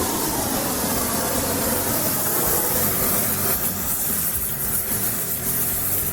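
Gas torch flame burning with a steady loud hiss, heating steel bar stock so it can be bent on the jig.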